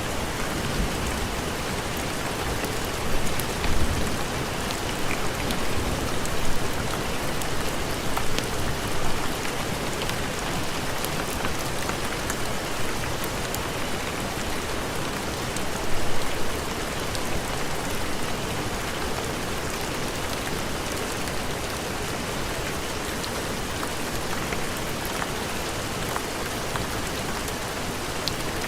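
Steady heavy rain, with a few brief low swells in the first half and scattered small sharp clicks.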